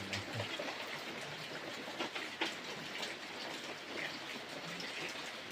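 Steady rain falling, with a few louder drops hitting a surface, about two seconds in.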